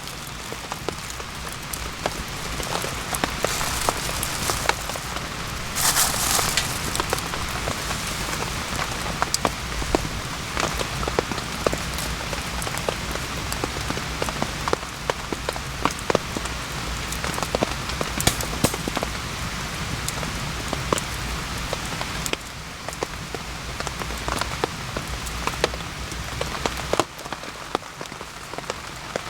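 Steady rain falling in a forest, with many separate drops striking close by as sharp ticks, and a brief louder rush about six seconds in.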